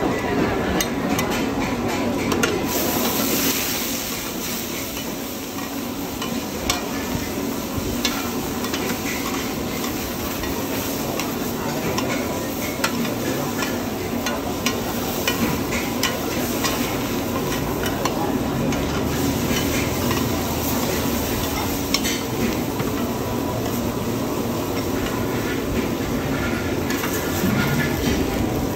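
Oysters and egg batter sizzling in hot oil in a large shallow wok, with a metal spatula and ladle scraping and clicking against the pan as they are stirred and turned.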